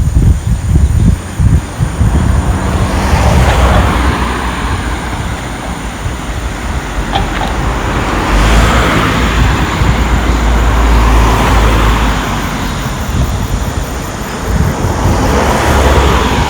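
Road traffic: several cars passing one after another, each swelling and fading away, with wind rumbling on the microphone.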